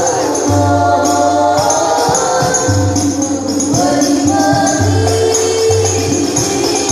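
Sholawat devotional music: voices singing a melody over hand-struck frame drums with jingling tambourine, and long low bass notes underneath.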